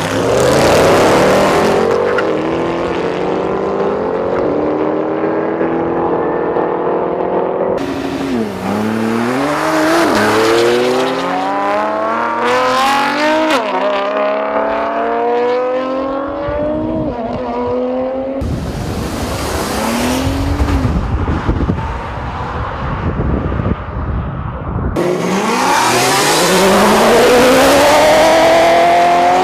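High-performance car engines accelerating hard at full throttle, the pitch climbing and then dropping at each gear change, in several clips cut together. In one clip a deep rumble covers the engine note.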